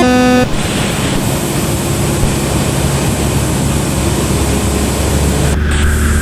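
Cessna 172 in flight: steady noise of its four-cylinder engine, propeller and rushing airflow. A short electronic tone ends just after the start. About two-thirds of the way through, the sound changes character as the high part drops.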